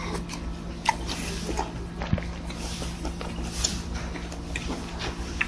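Close-up chewing of chewy beef small intestine (gopchang): scattered soft, wet mouth clicks and smacks, over a steady low hum.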